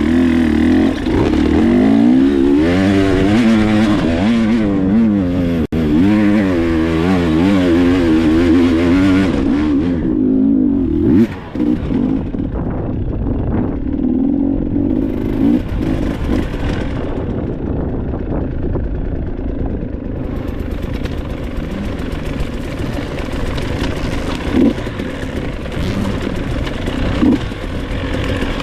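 Dirt bike engine revving hard, its pitch rising and falling again and again for about the first ten seconds. It then settles into a lower, steadier run, with a few short knocks near the end.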